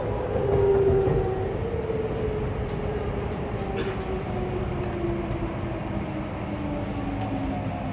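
Saitama Railway 2000 series electric train heard from inside the car as it slows into a station: the traction motors' whine falls steadily in pitch over a running rumble, with faint clicks from the track.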